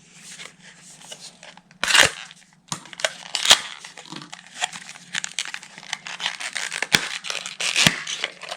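Product packaging being torn open and crinkled by hand, an irregular rustling broken by a few sharp clicks and knocks.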